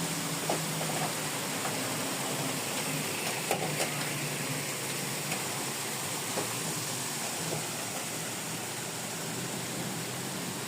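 A low, steady engine hum under a constant hiss, with a few light clicks, two of them close together a little past the middle.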